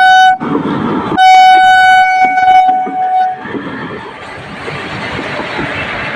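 Train horn blowing two long blasts, the second ending about three and a half seconds in, followed by a steady rushing rumble of the train rolling slowly over the level crossing.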